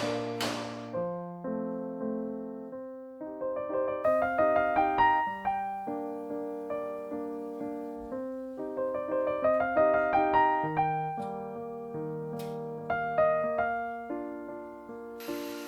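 Solo piano playing a slow, flowing piece of broken chords. There is a sharp click about half a second in, another near the end, and a brief hiss just before it stops.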